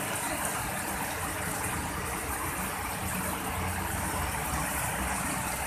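Steady hiss of heavy rain pouring down, with a low rumbling hum underneath.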